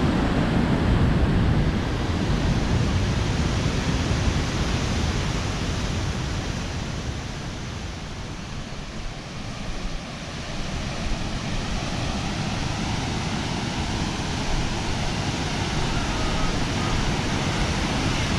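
Steady rushing of a large waterfall, Cumberland Falls, heard close by as an even wash of water noise. It softens a little about halfway through and then builds back.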